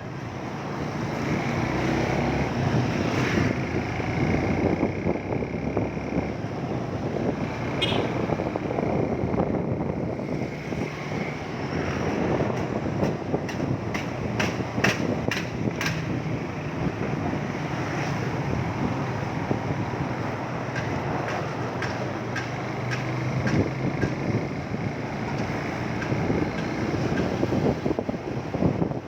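Motorcycle engine running steadily on the move, with road and wind noise, and a quick run of sharp clicks about halfway through.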